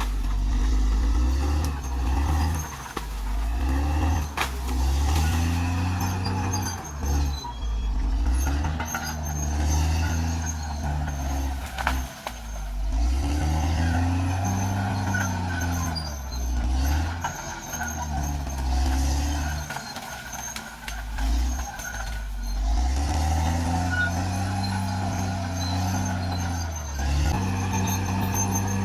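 Caterpillar D6R XL bulldozer's diesel engine working under varying load, its pitch repeatedly rising and falling every few seconds, with occasional knocks.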